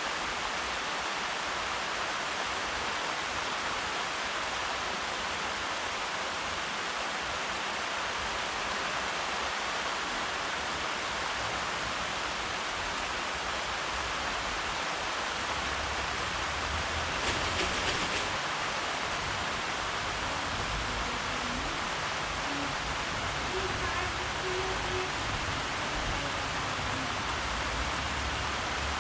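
Steady rain falling, an even hiss that grows briefly louder for about a second roughly two-thirds of the way through.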